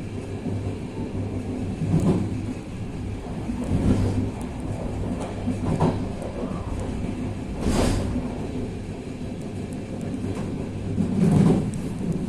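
Railcar built by Vagónka Studénka running along the track: a steady low rumble and hum, with a dull thump about every two seconds and one sharper knock just past the middle.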